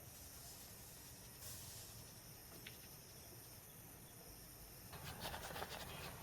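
Faint, steady high-pitched insect chirring. A brief hiss comes about one and a half seconds in, and rustling and clicking start near the end.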